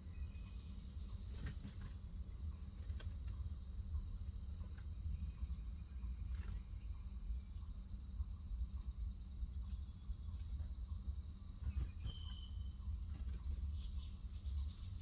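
Backyard ambience of insects: a steady high-pitched drone, joined for about five seconds in the middle by a higher trilling buzz, with a few short chirps and faint clicks, over a low outdoor rumble.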